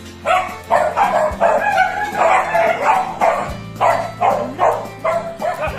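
A dog barking in a rapid run of short barks, about three a second, continuing without a break.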